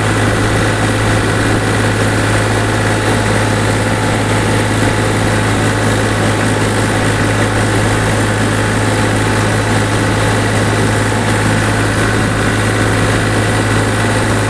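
Powertrac tractor's diesel engine running steadily, with an even, strong low drone that holds the same pitch throughout.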